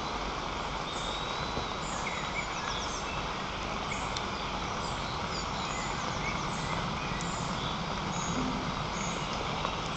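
Small birds chirping and singing in short high calls against a steady outdoor background hiss.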